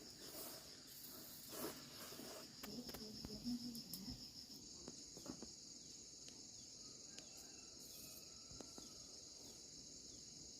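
Insects trilling: a steady high-pitched chirring that pulses rapidly for the first four seconds or so, then settles into an even buzz. A few faint clicks and knocks come in the first half.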